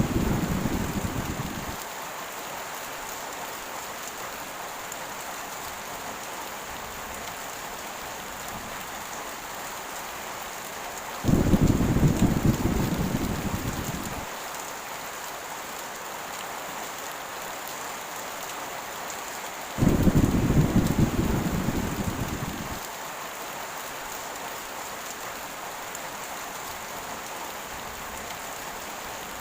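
Heavy rain falling steadily, with low thunder rumbles. One fades out in the first two seconds, and two more come about 11 and 20 seconds in. Each starts suddenly and dies away over about three seconds.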